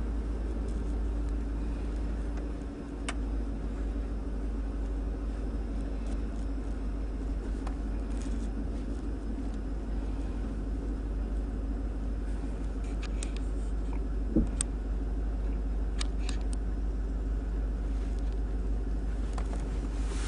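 Truck engine and road rumble heard from inside the cab while driving, steady throughout, with a few light clicks and a sharp knock about two-thirds of the way through.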